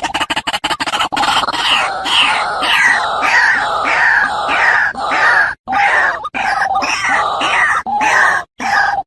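White-breasted waterhen (ruak-ruak) calling: after a fast pulsing start, loud harsh calls repeated about twice a second, each note dropping in pitch, with short breaks near the end. This is the kind of call played back to lure waterhens.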